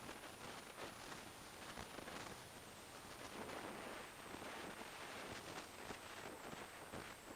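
Wind rushing over the microphone of an action camera on a moving motorcycle: an irregular, gusty hiss, with no clear engine note through it.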